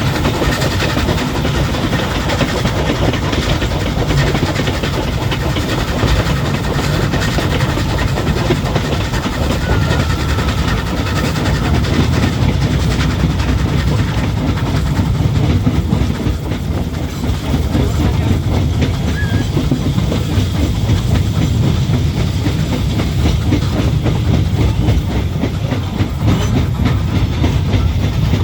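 Vintage railway train running along the track: a steady low rumble with the rapid clatter of wheels over the rails, going on without a break.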